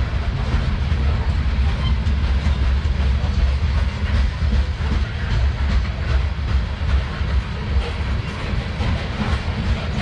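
CSX freight train cars rolling past: a steady heavy rumble with the wheels clicking over the rail joints.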